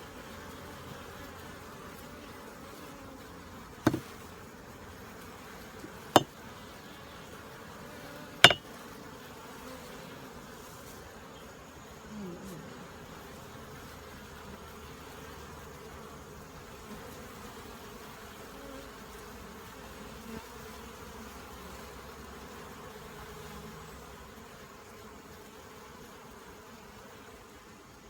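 Many honeybees buzzing at a busy hive entrance, a steady hum, easing a little near the end. Three sharp clicks stand out over it, about two seconds apart, in the first nine seconds.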